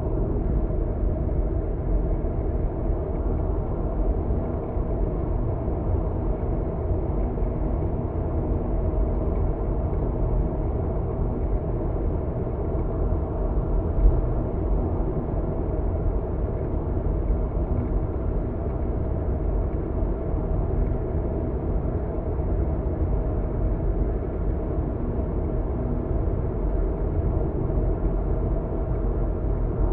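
Steady low rumble of a car driving, tyre and engine noise heard from inside the car. One brief knock about halfway through.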